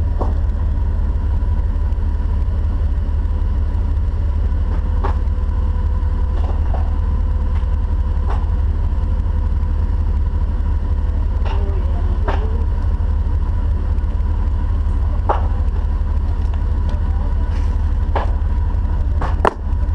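Jeep's engine and drivetrain rumbling steadily as it crawls off-road, with scattered sharp knocks and clicks, about seven over the stretch, the two loudest close together near the end.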